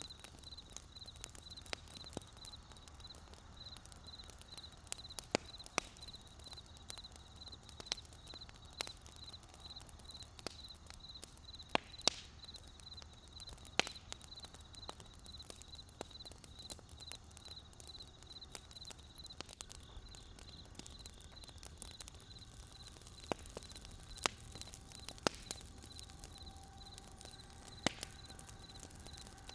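Wood fire crackling, with sharp irregular pops and snaps every second or so over a soft background hiss. A steady, evenly pulsing high trill runs underneath, and faint held tones come in near the end.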